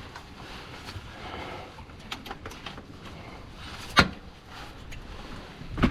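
Small metallic clicks and taps of hand tools working on a car's underside, with a sharp knock about four seconds in and another near the end.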